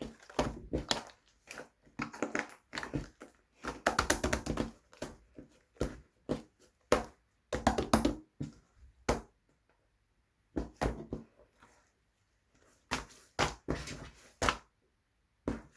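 Hands squeezing, stretching and pressing white slime, making irregular sticky pops, clicks and squelches, with a short lull about ten seconds in.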